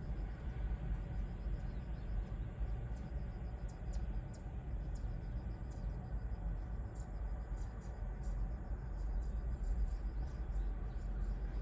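Ocean surf from typhoon swell making a steady low rumble, with crickets chirping in a fast, even pulse above it.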